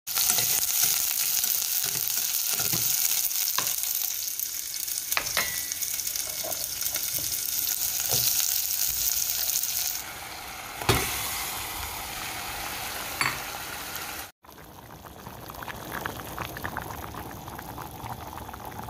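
Sliced onions and a bay leaf sizzling in hot oil in a pot, stirred with a metal spoon that clinks against the pot a few times. About ten seconds in the sizzle drops to a quieter one, with a brief silent gap a few seconds later.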